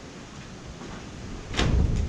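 A low rumble, then a sudden louder knock with a rattle about a second and a half in.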